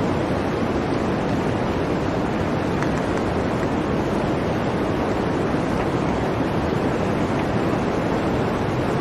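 Blizzard wind blowing in a steady, dense rush without gusts or pauses.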